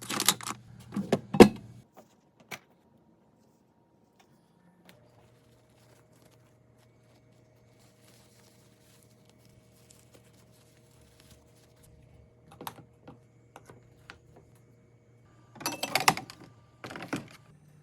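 Small clicks and clatters of food containers being handled and put into a refrigerator, in a busy burst at the start and again near the end. Between them is a long quiet stretch where only a faint steady hum remains.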